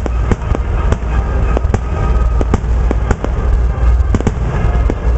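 Aerial fireworks shells bursting in a grand finale: a quick run of sharp bangs, about two or three a second, over a continuous low rumble.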